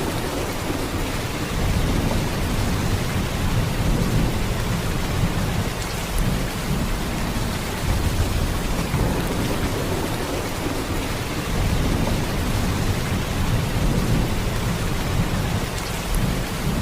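Steady heavy downpour of rain: a dense, even hiss with a deep low rumble underneath that swells gently.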